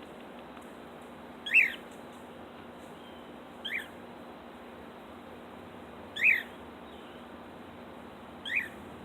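Cockatiel giving four loud single chirps, a couple of seconds apart, each a quick rise and fall in pitch. She is calling for attention after being left alone.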